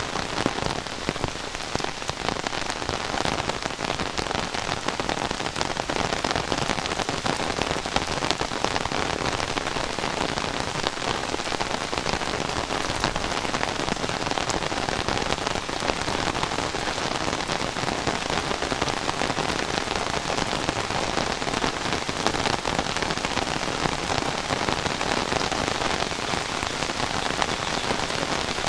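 Heavy rain falling steadily: a dense, even rush of rain with many individual drops striking close by.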